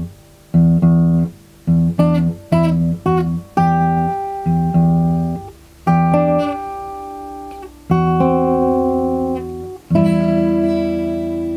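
Guitar music: a slow run of struck chords, most of them damped short with gaps between them, then a longer chord that rings on from about ten seconds in.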